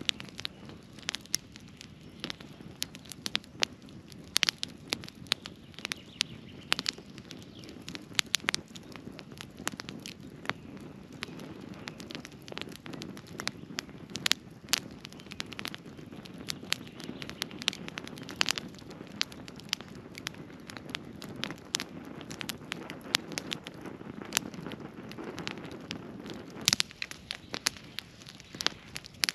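Wood campfire crackling, with frequent irregular sharp pops over a steady low rush of the flames.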